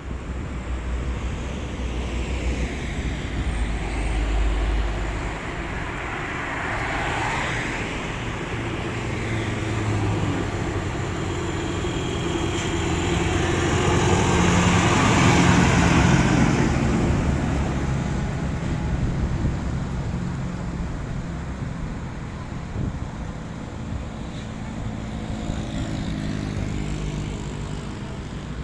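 Heavy diesel trucks pulling uphill past the roadside, engines working under load; the sound swells to its loudest about halfway through and fades toward the end.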